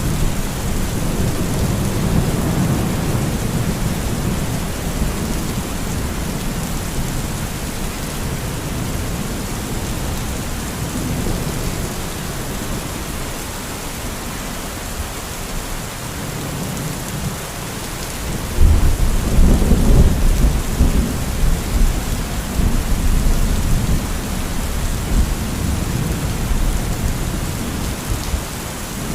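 Steady rain during a thunderstorm, with rolling thunder; a louder, deep thunder rumble comes about two-thirds of the way through and dies away over a few seconds.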